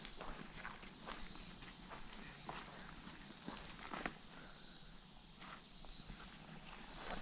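Steady high-pitched chorus of insects droning without a break, with irregular footsteps of people walking along the trail.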